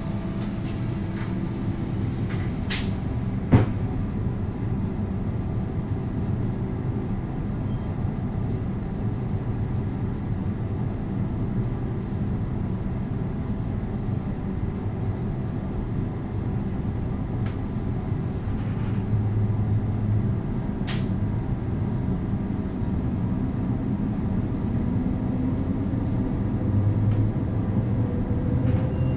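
Steady low rumble and hum of factory machinery, with three sharp knocks: two close together near the start and one about two-thirds of the way through.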